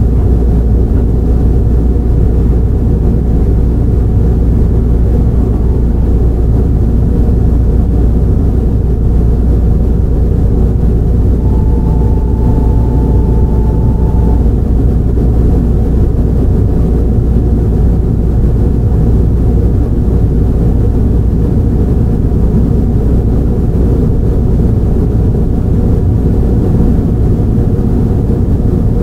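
Steady low rumble heard inside a JR 681 series electric train car, with no rising or falling motor whine. A thin steady tone sounds briefly about halfway through.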